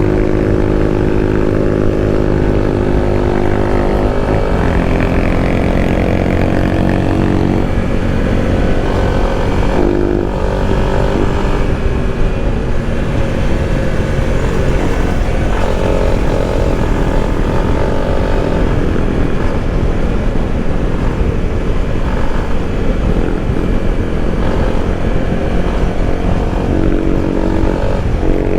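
Motorcycle engine running at road speed while being ridden, heard from the bike itself. The engine note holds steady at first, changes pitch from about four seconds in as the revs vary, and settles back to a steady note near the end.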